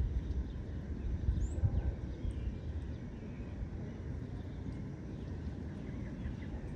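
Outdoor park ambience: a low steady rumble, stronger in the first couple of seconds, with a few faint, short bird chirps above it.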